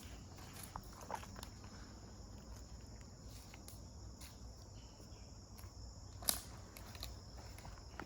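Footsteps on a woodland trail: scattered soft crunches and clicks, one sharper about six seconds in, over a steady high chirring of crickets or other insects.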